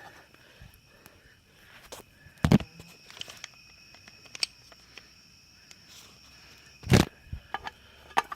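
Scattered light clicks and knocks, with two louder short thumps about two and a half seconds and seven seconds in.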